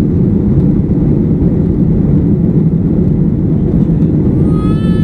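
Airliner cabin noise in flight: a steady, loud low rush of engines and airflow heard from inside the passenger cabin.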